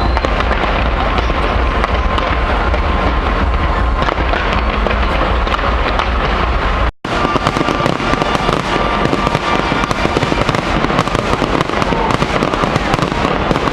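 Fireworks display with a dense, continuous crackle of many shells and small bursts going off in quick succession. The sound drops out for an instant about halfway.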